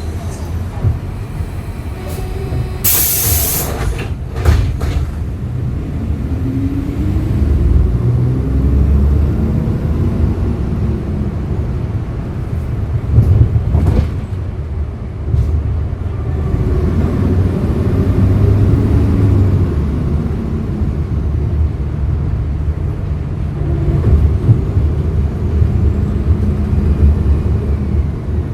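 2011 Hyundai Green City CNG city bus's natural-gas engine running under a steady low rumble. Its pitch rises and falls twice as the bus pulls away and slows. A short, loud hiss of released compressed air comes about three seconds in.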